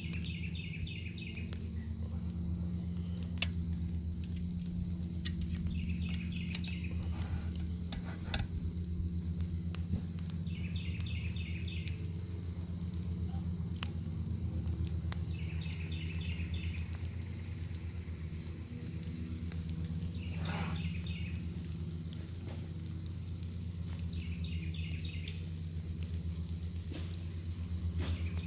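Bacon sizzling over a campfire: a steady frying hiss with scattered sharp pops and crackles. An insect calls in short trilled chirps about every five seconds. A steady low rumble runs underneath.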